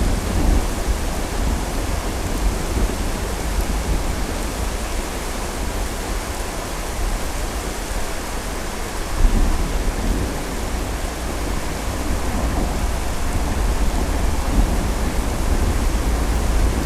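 Thunderstorm: steady rain with a low rumble of thunder underneath, which swells briefly about halfway through.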